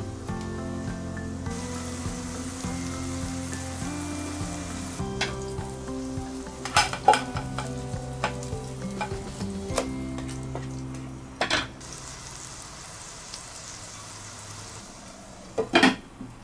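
Hamburg steak patty sizzling as it fries in oil in a nonstick pan, with a spatula clicking against the pan a few times midway as the patty is turned. Near the end a glass lid is set on the pan with a loud knock.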